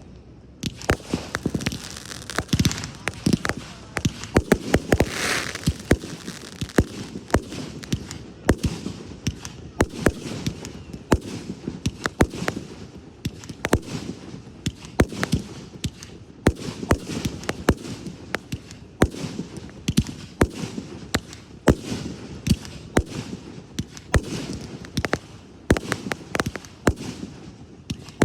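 Fireworks display going off: sharp bangs and crackling reports in rapid, irregular succession, several a second, over a continuous low rumble.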